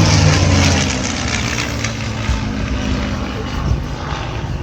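Jet aircraft of the Red Arrows, BAE Hawk trainers, passing overhead with a loud jet roar. The low engine note drops in pitch as they pass, and the sound is loudest in the first second and then eases off.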